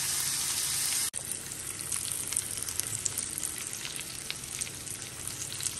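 Lamb rack searing in butter in a frying pan: a steady sizzle that breaks off abruptly about a second in, then carries on with crackles and spits of fat.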